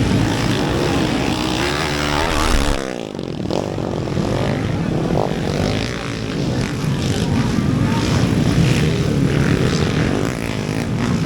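Underbone motorcycle engines racing on a motocross track, revving hard. About two seconds in, one engine's pitch falls and then cuts off sharply, before the engine noise builds again.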